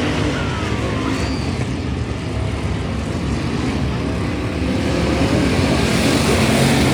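Race car engine running hard at speed, a steady loud engine sound that swells a little near the end.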